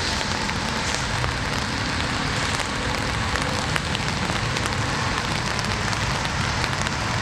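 Steady rain falling: an even hiss with many small raindrop ticks scattered through it.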